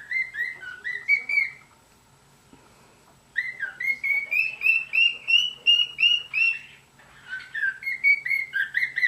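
Cockatiel whistling its song in three phrases of short, clear notes. The middle phrase is a quick run of about a dozen even notes, and it comes after a pause of about a second and a half.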